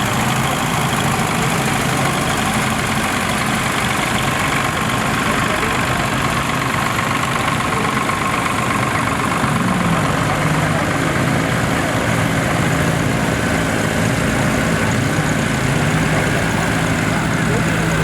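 An engine idling steadily, its pitch wavering slightly about halfway through, with faint voices in the background.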